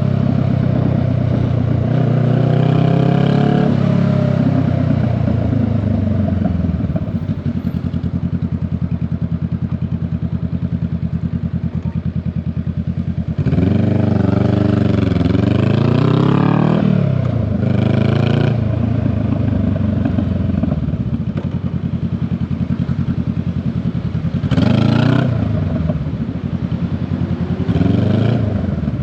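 Honda Rebel 500 parallel-twin motorcycle exhaust while riding. It runs at a low steady beat for several seconds, then the revs climb and fall sharply about halfway through as it accelerates through the gears, with shorter revs near the end.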